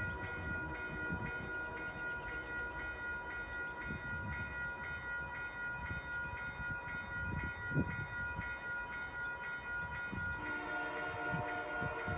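Freight train sound: a steady chord of high ringing tones held without a break over a low rumble, with a single short knock about eight seconds in.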